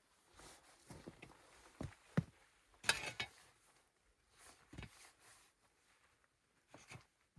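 Irregular knocks, crunches and rustles of hands-on outdoor work, with a few sharper knocks about two, three and five seconds in.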